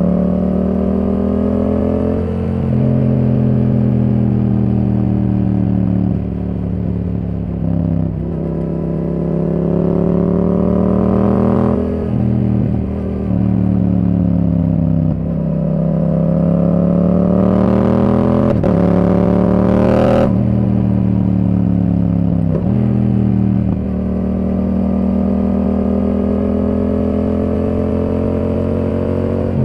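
Yamaha R7 parallel-twin engine through a Yoshimura R77 exhaust under way, its note rising and falling with the throttle. About ten brief breaks in the note mark gear changes.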